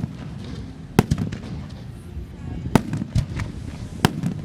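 Aerial fireworks bursting: about six sharp booms at uneven intervals, the loudest about a second in, near three seconds and just after four seconds.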